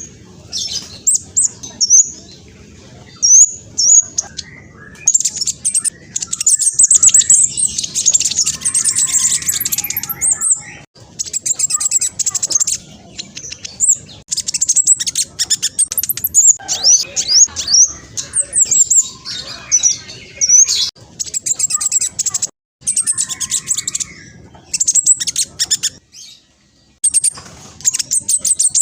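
Black sunbird singing a fast, high-pitched chattering song of rapid trills and sharp gliding notes, delivered in bursts with a few brief pauses.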